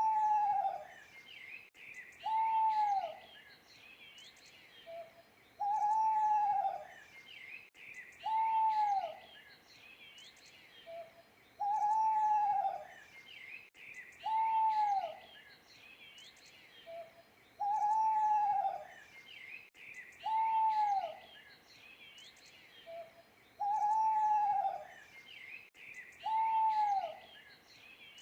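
An owl hooting in a repeating phrase, about every six seconds: a short note, then two longer hoots that rise and fall in pitch. Small birds chirp faintly behind it.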